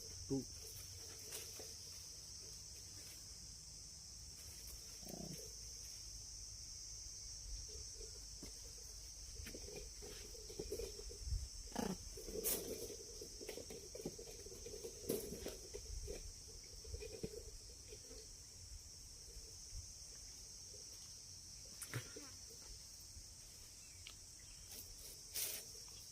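Steady high-pitched chirring of crickets, with a few sharp clicks and knocks scattered through it.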